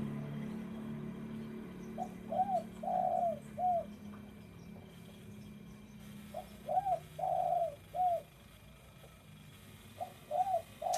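Spotted dove (derkuku) cooing. It sings its phrase three times, about four seconds apart, and each phrase is a few short coos with one longer, drawn-out note.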